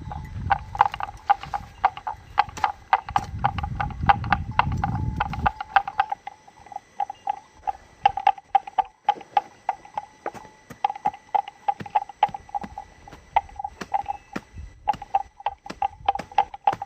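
A rapid, uneven series of short clicks and knocks, several a second, with a low rumble underneath that stops about five and a half seconds in.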